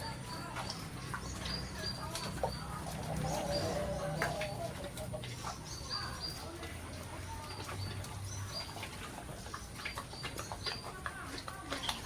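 Many short, high bird chirps repeating throughout, with a few lower calls in between, over a low steady hum.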